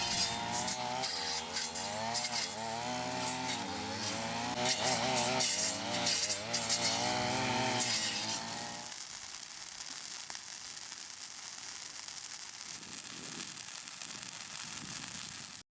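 A small engine running, its pitch rising and falling, until about nine seconds in. Then a steadier, quieter noise, which cuts off abruptly near the end.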